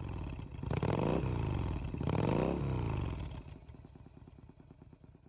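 Engine revved twice in quick succession, then settling back toward an even idle.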